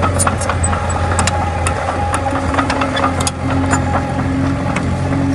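Komatsu D20A bulldozer's diesel engine running steadily, with frequent short metallic clicks and clinks over it.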